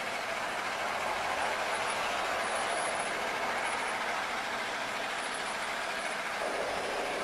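Steady road noise of vehicle traffic, an even rushing sound with no breaks.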